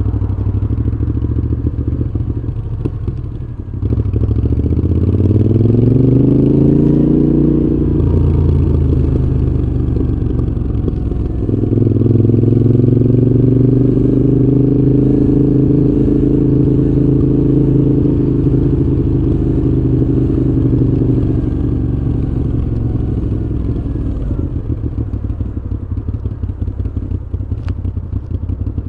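Moto Guzzi V7's transverse V-twin through a Mistral exhaust, under way. About four seconds in it accelerates with rising pitch, then drops back near eight seconds as if for a gear change. It pulls again from about twelve seconds and holds a steady note, then eases off near the end to a lower, rougher burble.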